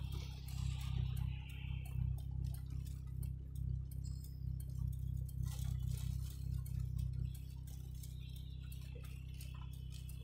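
Low rumble inside a moving car's cabin, wavering and then settling to a steady hum about seven seconds in, with light ticking over it.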